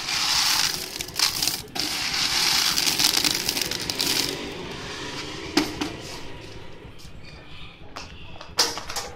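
Homemade corn sheller and cob crusher machine working on corn: a loud, dense noise for about the first four seconds that then dies down, with single sharp knocks about halfway through and near the end.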